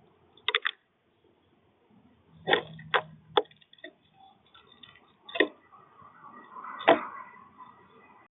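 Birds landing on and pecking at a bird feeder: about six irregular sharp knocks and taps, with a faint steady high tone in the last few seconds.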